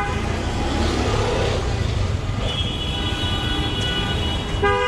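Busy street traffic rumbling steadily, with vehicle horns held: one starts about halfway through and a lower, louder one starts near the end.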